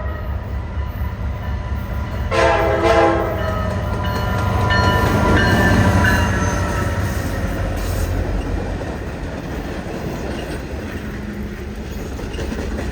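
Alaska Railroad passenger train running with a steady low rumble, its locomotive horn sounding one short chord blast about two seconds in.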